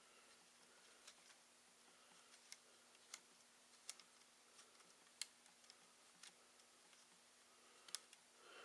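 Faint, scattered light clicks and taps, about seven or eight at irregular intervals, from small plastic and metal laptop parts being handled during disassembly, over a faint steady hum.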